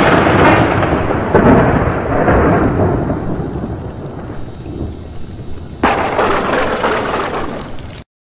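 Thunderstorm sound effect: thunder rumbling over rain, with a fresh clap about a second and a half in and a sharp new crack about six seconds in. It cuts off suddenly near the end.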